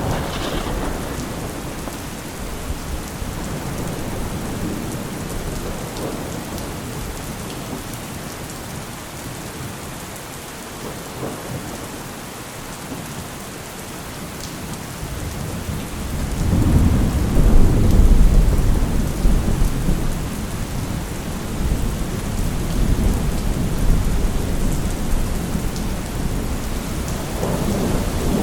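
Steady rain falling, with rolls of thunder: a low rumble at the start, a stronger long roll building about sixteen seconds in and lasting several seconds, and another rumble beginning near the end.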